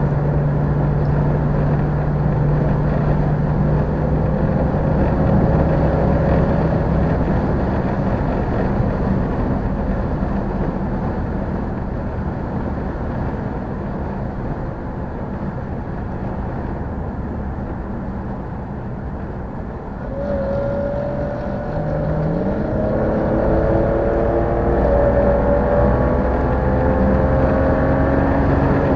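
A car engine and exhaust under way, running at a steady pitch for the first two-thirds. Then it steps up and pulls, its pitch climbing steadily as the car accelerates.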